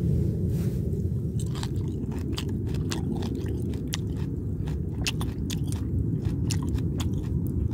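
A person chewing a mouthful of aged kimchi close to the microphone, with many short crisp crunching clicks, over a steady low rumble.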